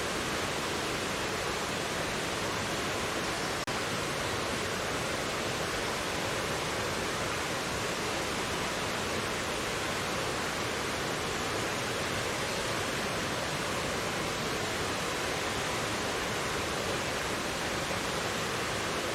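Mountain valley stream water running with a steady, even rush, with a momentary dropout a little under four seconds in.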